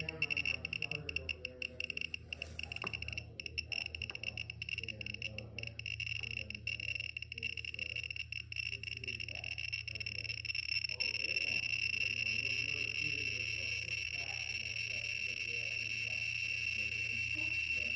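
BetterGeiger S2 mini Geiger counter sounding a steady high-pitched alarm tone while scanning radioactive antique aircraft instruments, with rapid clicks over the first several seconds. The tone grows louder about eleven seconds in, as the reading rises.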